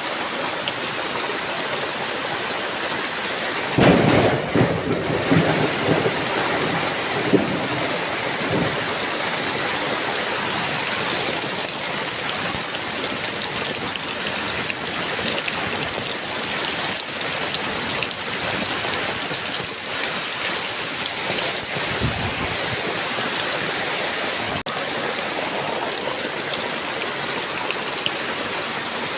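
Heavy rain pouring steadily, with a clap of thunder breaking in about four seconds in and rumbling away over several seconds, and a fainter low rumble of thunder later on.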